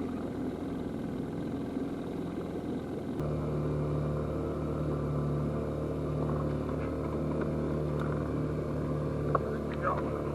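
A boat's outboard motor running steadily at trolling speed. About three seconds in, the hum abruptly becomes louder and fuller in its low notes.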